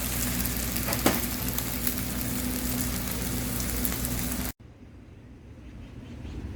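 Whole chickens roasting over a wood fire, sizzling steadily with a low hum underneath and one sharp crack about a second in. The sizzling cuts off abruptly partway through, giving way to a much quieter background.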